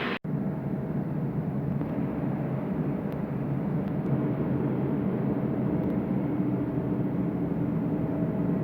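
Steady low rumble of a train, with a low hum of several steady tones, after a sudden cut just after the start.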